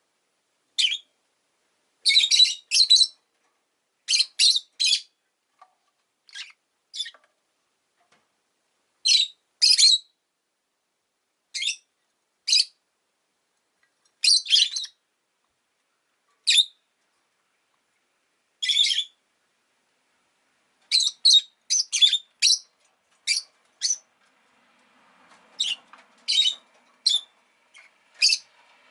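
Rosy-faced lovebird giving short, shrill chirps, singly and in quick runs of two to four, with silent gaps between.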